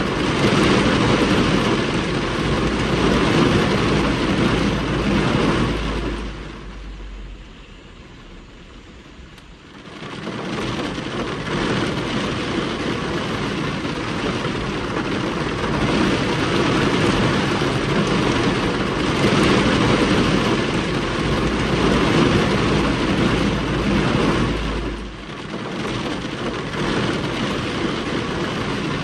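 Heavy rain driven by gusting wind against a car windscreen, heard from inside the car, with a low rumble beneath. It swells and fades with the gusts, and falls away to a lull for about three seconds roughly a quarter of the way in before building again.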